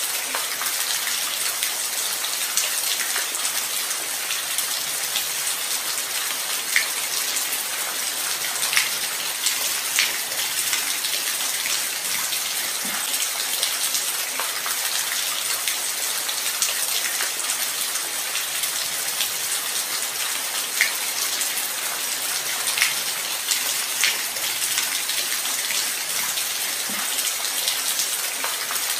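Steady light rain: an even hiss with scattered louder individual drops ticking on a surface.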